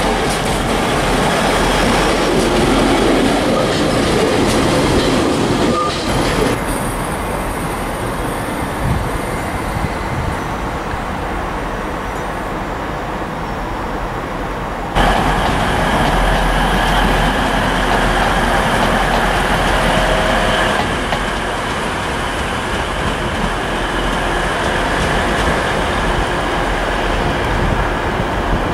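Railway station sounds from several trains in turn: a TransPennine Express Class 185 diesel multiple unit running past on the rails, then a train standing at a platform, then another Class 185 approaching. The sound changes abruptly several times.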